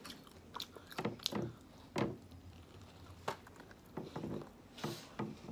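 Close-up chewing of a bite of flauta: short wet mouth clicks and smacks at irregular intervals.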